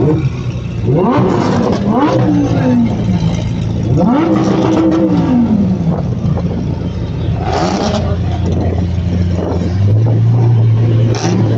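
A car engine idling and being revved: three quick revs rise and fall in pitch in the first five seconds. From about ten seconds in, a louder steady engine note sets in.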